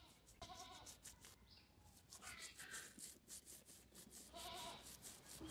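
Near silence, with an animal bleating faintly twice: once about half a second in and again near the end.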